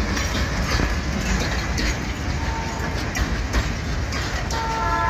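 Loaded grain hopper freight cars rolling past, a steady low rumble with irregular clatter of wheels over rail joints. A brief ringing tone comes in near the end.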